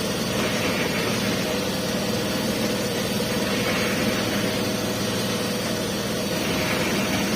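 Concrete mixer's engine running steadily, a continuous hum.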